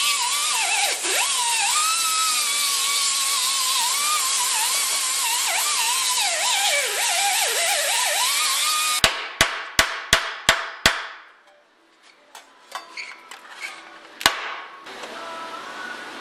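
A high-speed power cutting tool whines on sheet metal, its pitch dipping again and again as it bites in and recovering, while cutting rusted body panel. It stops, and about six quick hammer blows on metal follow, with one more strike a few seconds later.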